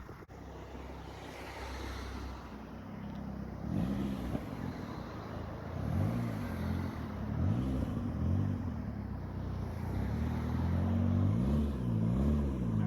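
Car engine revving in repeated throttle blips, the pitch rising and falling several times from about four seconds in. It grows louder as the car draws closer.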